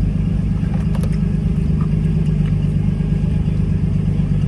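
Steady low rumble of a car's engine heard from inside the cabin, with a faint click or two about a second in.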